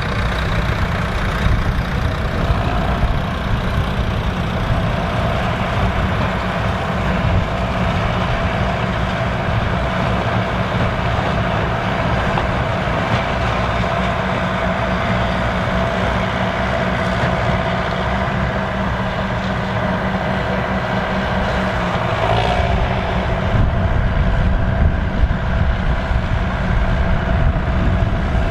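Massey Ferguson 3070 tractor's diesel engine running steadily at working revs, with a steady whine over the engine rumble. There is a brief change about 22 seconds in, and it is a little louder after that.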